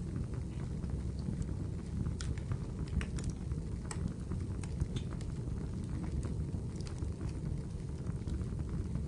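Wood fire burning in a fireplace: a steady low rumble with scattered sharp crackles and pops, a few of them clustered in the middle.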